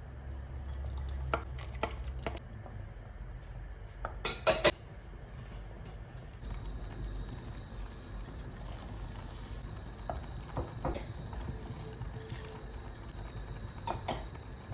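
Kitchen dishes and metal utensils clinking and knocking now and then, with a quick run of sharp clinks about four seconds in.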